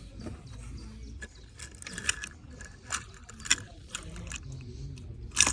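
Scattered sharp clicks and clatters of small hard objects being handled, uneven in timing, with the loudest knocks near the end.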